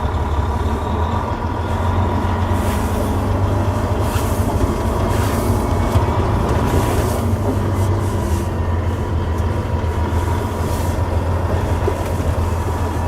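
Volvo D16 diesel engine of a 2009 Volvo 630 semi truck running under way, with road noise: a steady low drone and a faint constant higher tone.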